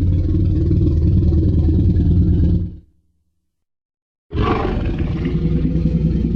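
Tyrannosaurus roar sound effect: a deep, loud roar that fades out a little under three seconds in. After about a second and a half of dead silence, another roar starts abruptly.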